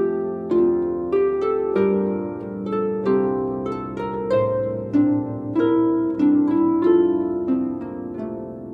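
Harp music: a slow melody of plucked notes, about two a second, each ringing out and fading.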